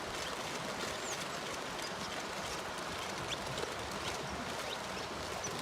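Faint, scattered short chirps of small birds over a steady outdoor hiss.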